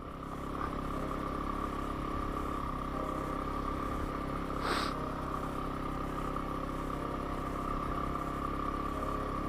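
Yamaha WR250R's 250 cc single-cylinder engine running steadily at an even speed, with a brief hiss about halfway through.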